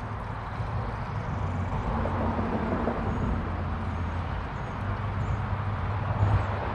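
Steady rumble of road traffic passing on a nearby highway, with a few faint high chirps over it.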